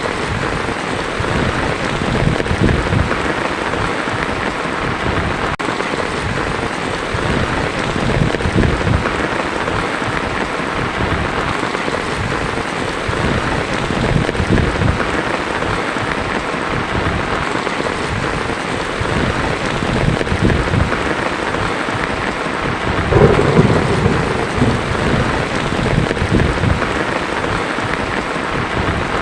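Heavy rain drumming steadily on a tin roof, with low rolls of thunder underneath; the loudest thunder swells about 23 seconds in.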